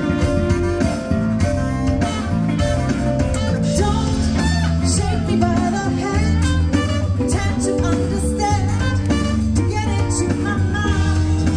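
A band playing a song live: a singer over guitar, a steady bass line and drums.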